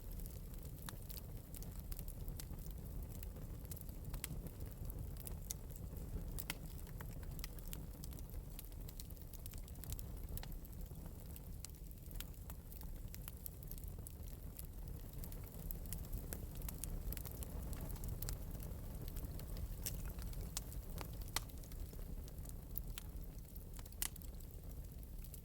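Wood fire burning in an open metal fireplace, crackling softly: a steady low rumble of flame with scattered, irregular sharp pops.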